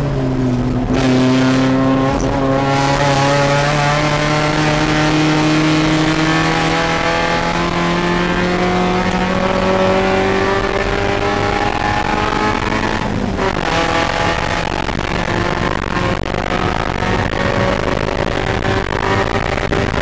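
Spec Miata race car's four-cylinder engine heard from inside the cabin under full acceleration, its pitch climbing slowly through a long gear. About 13 seconds in it drops sharply at an upshift, then climbs again.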